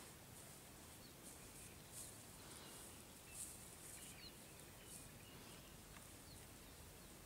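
Near silence: faint rural outdoor ambience with a few short, distant bird chirps and some soft swishes.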